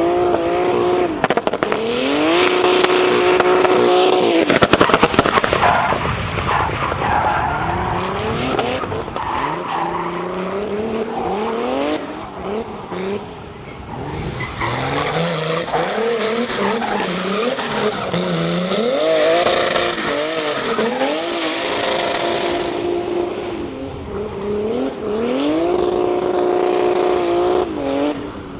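Turbocharged BMW E46 drift car revving hard through a drift run: the engine pitch climbs and holds at high revs several times, dropping back in between, with tyres squealing and skidding through long slides.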